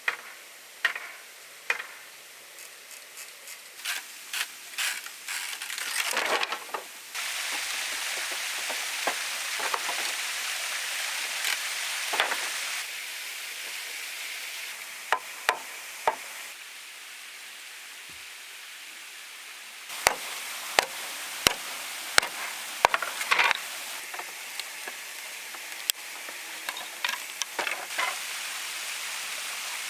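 Irregular sharp knocks and taps of manual work with hand tools, some in quick clusters, over a steady hiss that shifts in level several times.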